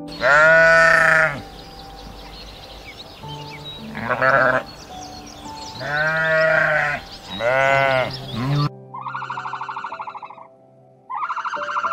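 Animal calls over soft background music: four drawn-out calls, each about a second long, rising then falling in pitch. Near the end they give way to a different call that pulses rapidly.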